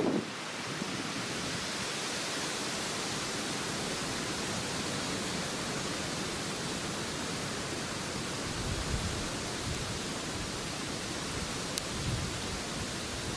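Steady, even hiss with no distinct pitch or rhythm, broken by one short tick near the end.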